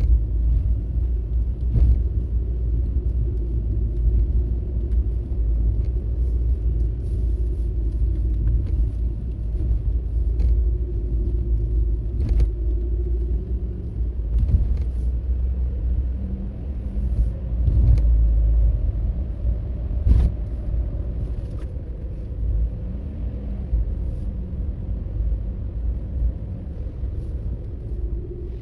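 A car being driven along a road: a steady low rumble of engine and tyres, with a few brief knocks.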